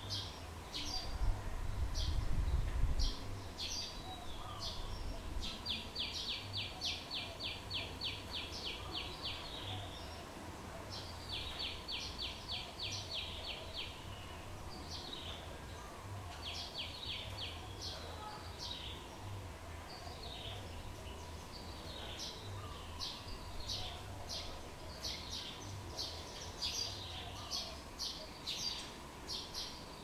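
Birds chirping in short high-pitched notes throughout, with two rapid trills of about eight notes a second early on and just before the middle. A low rumble sounds from about one to three seconds in.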